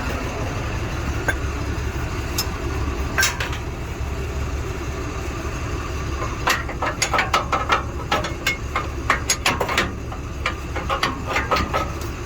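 Heavy truck's engine idling steadily, with a run of sharp clanks and knocks about halfway through that continue intermittently to near the end.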